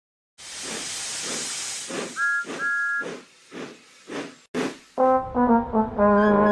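Cartoon steam-engine sound effects: a loud steam hiss, then steady chuffs about two a second with two short toots of a two-note whistle. Brass-led theme music starts about five seconds in.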